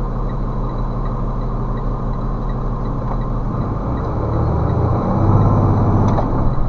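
Vehicle engine and road noise heard from inside a moving vehicle: a steady drone that grows louder about four seconds in.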